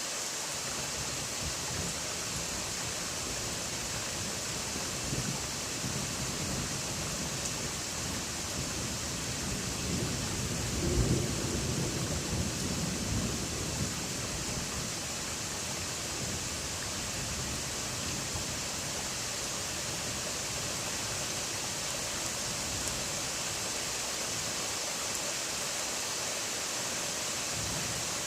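Steady rain hiss with a low, rolling rumble of distant thunder that builds about a third of the way in, peaks near the middle, then dies away.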